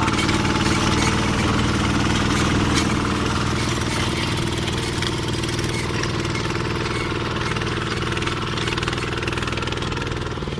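Homemade tractor's engine running steadily at a constant speed.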